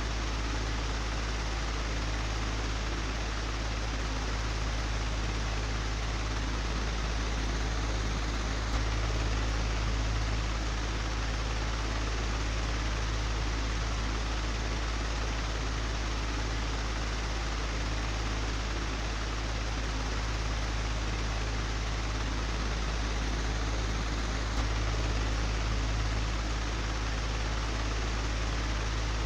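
Old electric fan running steadily: a constant low hum under an even rush of air, with slight swells in level about nine seconds in and again near the end.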